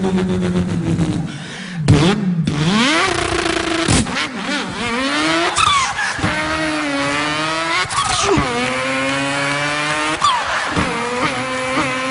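A man's vocal impression of a car engine revving up through the gears: the pitch climbs, drops sharply at each shift, and climbs again, about five times.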